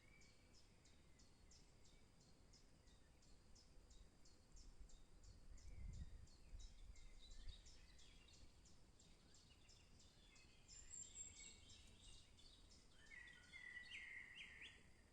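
Faint forest birdsong: a high, rapid ticking call repeats about three to four times a second through most of it, and a brighter bird phrase sings near the end. A low rumble swells briefly about six seconds in.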